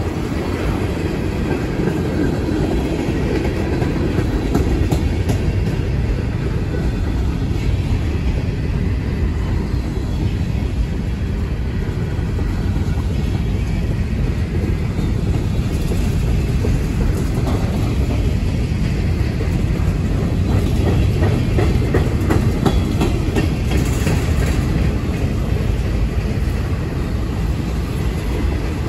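Freight cars of a manifest train, tank cars and covered hoppers, rolling past: a steady low rumble of steel wheels on rail, with clickety-clack from the wheels crossing rail joints, more clicks in the middle stretch.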